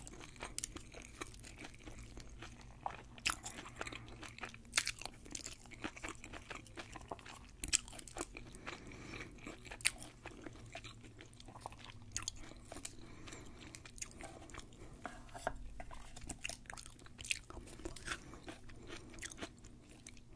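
Close-miked chewing of deep-fried sushi rolls, with irregular crisp crunches and wet mouth sounds.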